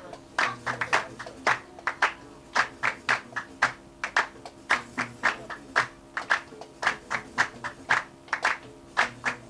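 Gnawa qraqeb, iron castanets, clacking in a fast swung rhythm of several sharp metallic strokes a second, over a steady low tone.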